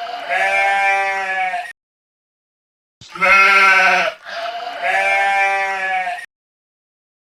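Sheep bleating: three long baas, one at the start, then two more back to back after a pause of over a second.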